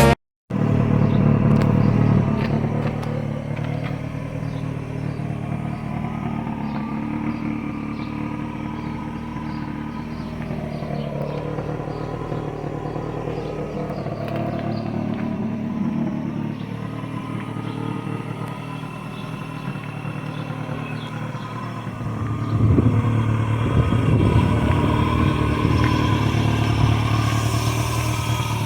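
Rover Metro engine running through its new exhaust, a steady low exhaust note with the revs drifting up and down. It gets louder about two-thirds of the way through, as the revs rise.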